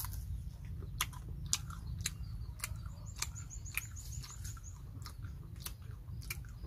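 A person biting and chewing raw young tamarind pods close to the microphone: irregular crisp crunches, about two a second.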